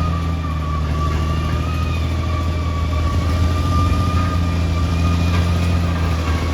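Caterpillar D6R XL bulldozer's diesel engine running steadily, a low engine note with a thin, steady high whine over it.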